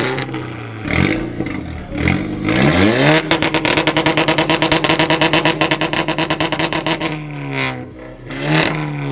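LS1 V8 engine being revved: two short blips from idle, then held at high revs for about four seconds with a fast choppy pulse, dropping back, then one more blip near the end.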